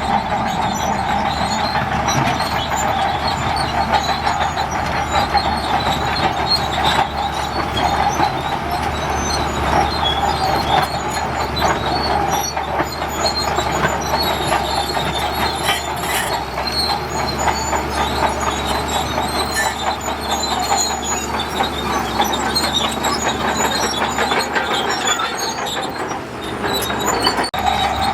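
Crawler bulldozer working, its engine running steadily under a dense, continuous clatter of its steel tracks.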